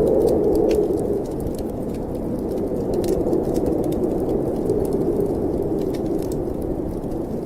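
Snowstorm wind blowing in a steady low whoosh that swells and eases, with a fireplace crackling in scattered sharp pops over it.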